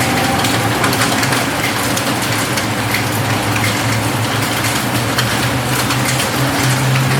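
Rain falling on a roof: a steady hiss dense with the taps of single drops. Under it runs a steady low hum.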